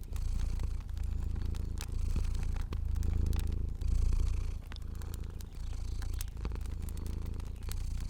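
A cat purring, a low rumble that pulses in cycles of about a second with short breaks between breaths. Fire crackling throughout, with scattered small pops.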